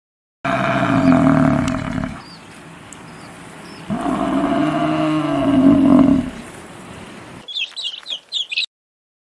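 A large mammal gives two long, loud calls whose pitch rises and then falls, with birds chirping faintly in the background.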